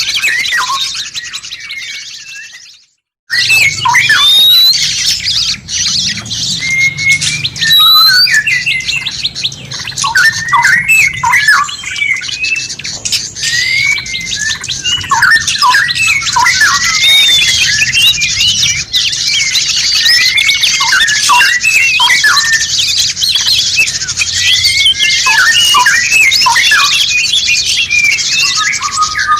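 One recording of birds fades out to silence within the first three seconds, then another starts: many birds chirping and squawking in dense, overlapping short calls over a steady hiss.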